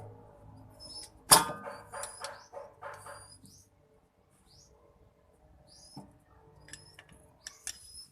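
A sharp metallic clank with a brief ring about a second in, followed by a run of lighter clicks and knocks, like tools being handled on metal. Birds chirp in short high calls throughout.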